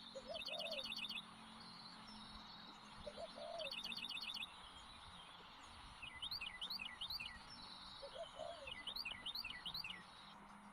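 Wild birdsong: a small bird sings four bursts of fast, repeated high notes a few seconds apart. A dove coos low three times in between.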